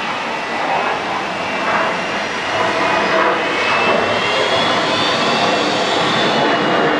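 Jet airliner engines running, a steady loud rush of noise with a high whine that rises slightly in the middle.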